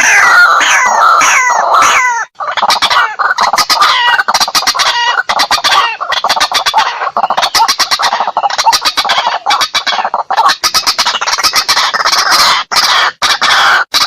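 White-breasted waterhen (ruak-ruak) calling on a bird-lure recording. It starts with repeated downward-hooked notes, then runs into fast, harsh pulsed calling, the loud 'kruak-kruak' chorus used to draw waterhens in.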